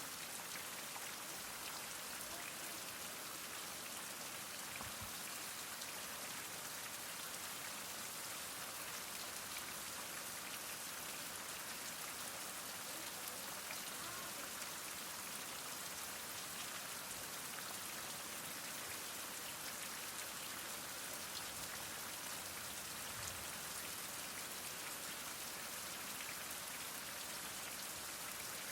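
Heavy rain falling steadily, a dense even hiss of drops with many fine patters on surfaces.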